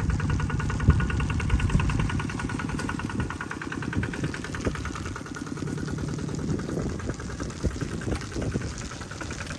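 An engine running steadily at a low, even chug.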